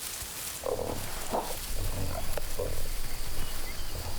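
Cheetah cubs calling: a handful of short, separate calls a second or so apart.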